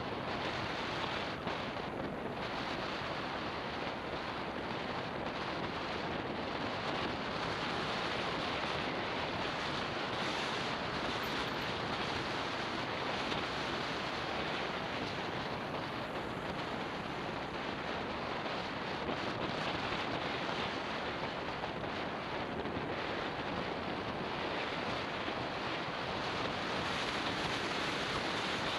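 Steady rush of wind buffeting a Garmin VIRB 360 action camera's microphone while riding a motorbike.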